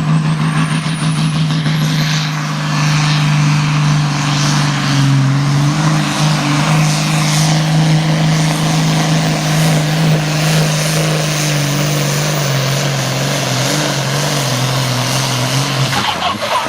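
Pulling tractor's diesel engine running hard at a steady high pitch over loud, wide noise, easing down slightly in pitch a few times. It cuts off abruptly near the end.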